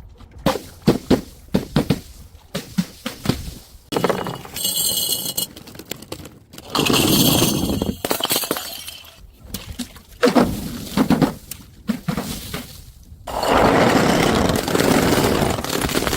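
Glass bottles knocking and clinking down stairs, with several longer crashes of breaking glass. The biggest and longest crash comes near the end.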